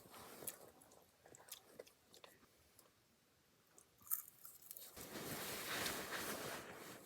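Crunchy chewing with small scattered clicks, a sharp click about four seconds in, then about two seconds of louder rustling hiss near the end.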